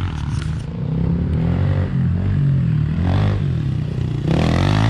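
Small four-stroke Honda pit bike engine running, its revs rising and falling as it is ridden, with a louder rev near the end.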